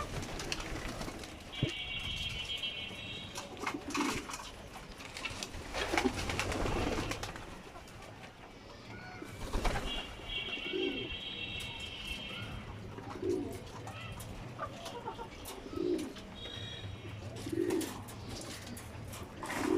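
Racing pigeons cooing, short low coos repeating every couple of seconds, with a longer high-pitched call from another bird twice and some scattered taps.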